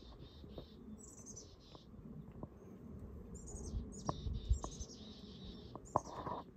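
Small birds chirping: several bursts of quick, high, short notes, with a few faint clicks between them.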